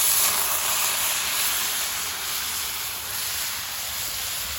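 Thin-sliced marinated steak and onions sizzling hard in a hot skillet, just thrown in, a loud hiss that eases off a little as it goes.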